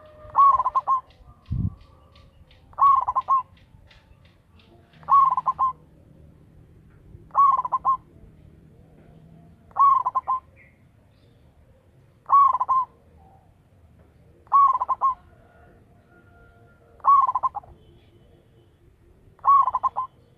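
Zebra dove (perkutut) singing, a short cooing phrase repeated nine times at an even pace of about one every two and a half seconds. A single low thump comes about a second and a half in.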